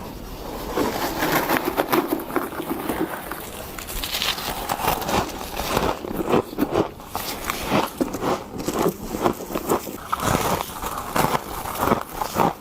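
Close-up bites into powdery freezer frost, a run of crisp crunching and crackling as the frost breaks between the teeth, many crunches in quick succession.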